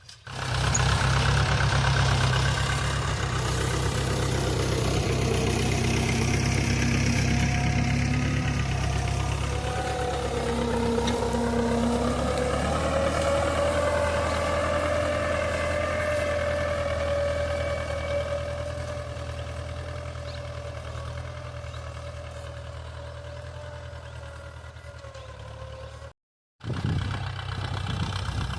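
Mahindra 475 tractor's diesel engine running under load while pulling a cultivator through the soil. It is loud at first, then fades away gradually over the second half, with a brief gap of silence near the end.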